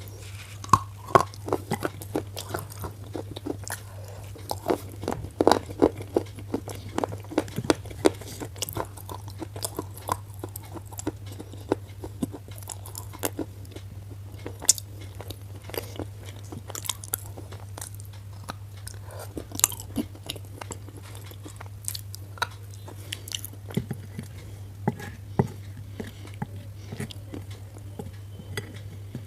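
Black slate pencil being bitten and chewed: sharp, irregular crunches all through, thickest and loudest in the first ten seconds or so, over a steady low hum.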